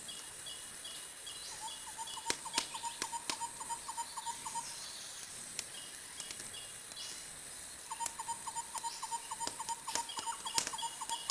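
Wood fire crackling with scattered sharp pops, the loudest a few seconds in and near the end. Behind it, a rhythmic chirping call of about four to five chirps a second comes in two runs, along with a fainter higher chirping pattern and a steady high hiss.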